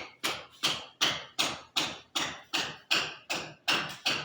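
Steady hammering: evenly spaced sharp blows, about two and a half a second, each ringing briefly.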